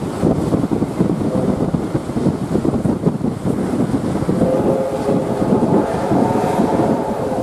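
Steam-hauled passenger train running at speed, heard from an open carriage window: wheels rattling over the rails, with wind on the microphone. About four and a half seconds in, a steady higher tone of several pitches joins and holds.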